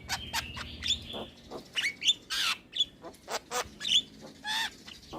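Javan myna (jalak kebo) singing a rapid, varied song: short whistles sliding up and down mixed with harsh squawks and clicks, one after another with hardly a pause.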